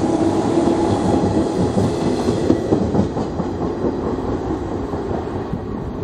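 JR Central 117 series electric train, two four-car sets coupled, pulling out of the station past the platform: steady rail running noise from its cars, fading gradually over the second half as the last car moves away.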